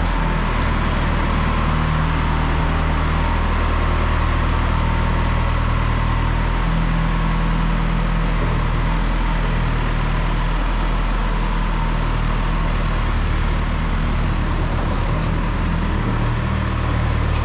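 1974 John Deere 2030 tractor engine running steadily while working a rear grading blade, its low drone shifting a little in strength a few times.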